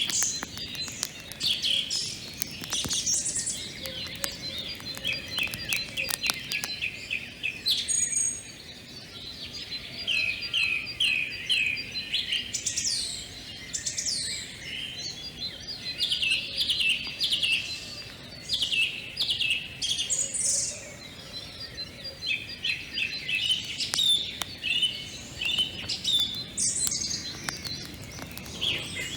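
Birds singing, several overlapping songs of quick repeated chirps and short rising and falling notes, with brief pauses between phrases.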